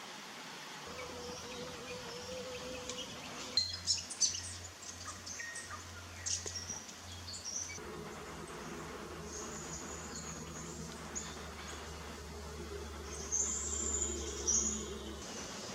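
Small birds giving short, high chirps and calls now and then over a faint, steady insect buzz, with a cluster of sharp chirps about four seconds in and again near the end.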